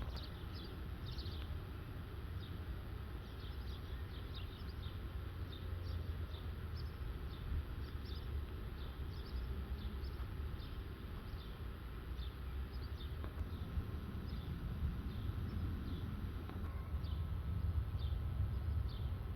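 Birds chirping: many short, quick falling chirps repeating irregularly, over a steady low rumble.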